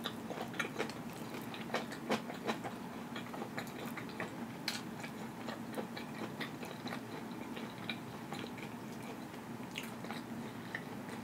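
Close-miked chewing: wet mouth clicks and smacks of someone eating, coming thick at first and thinning out towards the end.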